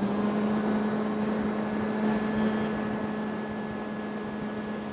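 Bhramari pranayama "bee breath": a person humming one long, steady note like a honeybee on a slow exhalation, held on one pitch and slowly getting softer.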